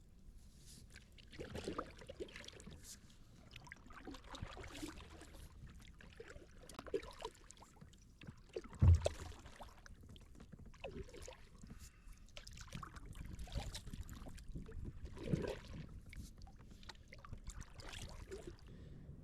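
Kayak paddle strokes dipping and splashing in the water at an uneven pace, with one sharp knock about nine seconds in.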